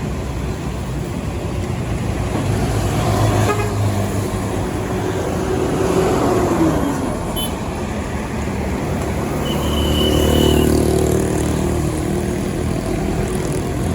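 Heavy loaded trucks passing on a highway, with engine rumble and tyre noise swelling and fading as each one goes by.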